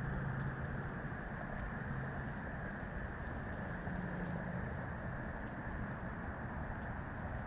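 Steady outdoor background rumble and hiss, with a faint low hum that comes and goes.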